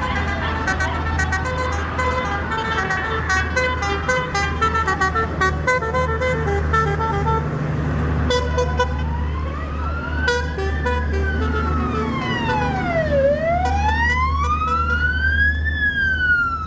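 A siren wailing, sweeping slowly up and down, each rise or fall taking about two and a half seconds, and getting loud about halfway through. Over the first half a tune of short notes plays, and a steady low engine hum runs underneath.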